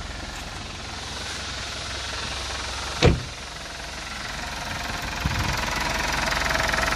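Mitsubishi Montero engine idling steadily while it warms up after a coolant refill, run with the radiator open so trapped air burps out of the cooling system. One sharp knock about three seconds in.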